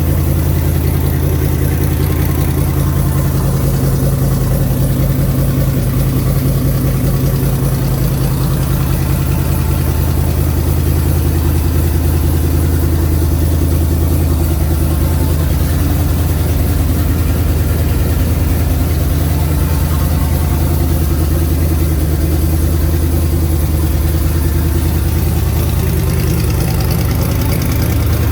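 Twin-turbo LS-swapped V8 in a 1988 Pontiac Trans Am idling steadily.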